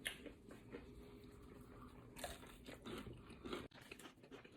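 Faint close-up biting and chewing of a sauced, breaded boneless chicken wing dipped in ranch, with a few soft crunches scattered through.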